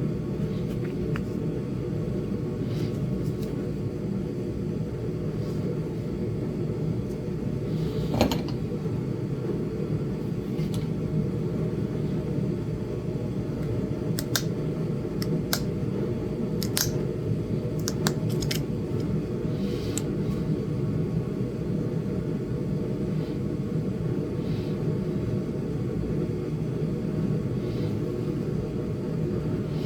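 Sharp scattered clicks and ticks of Flint Ridge chert being flaked with a knapping tool, about a dozen spread through, the clearest bunched about midway, over a steady low rumble.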